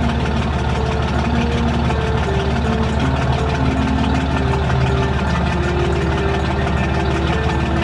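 An engine running steadily at constant speed close by, with a fast even chugging pulse.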